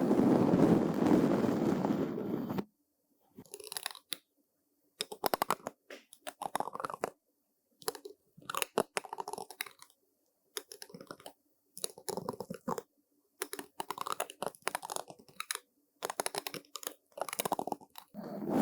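Bristle brush strokes: one long, dense sweep, then a run of short scratchy strokes with brief pauses between them.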